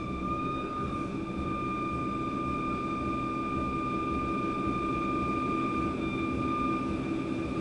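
Electric suburban train running, heard from inside the carriage: a steady high whine from the traction motors over a low rumble of the wheels on the track.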